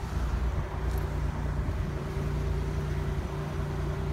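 A car engine idling with a steady low hum, mixed with low rumbling as the phone is carried.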